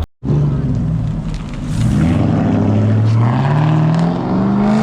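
A car engine running, its pitch climbing steadily as the engine speeds up.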